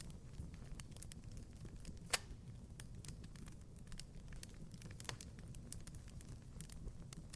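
Wood fire crackling in a fireplace: frequent small pops and snaps over a low, steady rumble of flames, with one sharp, louder pop about two seconds in and another near the middle.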